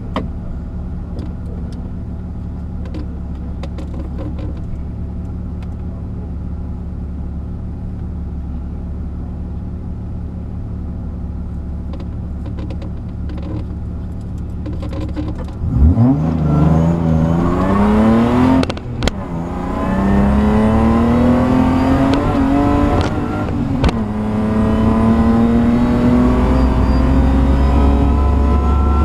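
Aston Martin DB7 prototype race car's engine idling steadily, heard from inside the cabin, then about sixteen seconds in launching hard at full throttle, revs climbing steeply, with gear changes cutting the sound twice before it pulls up again.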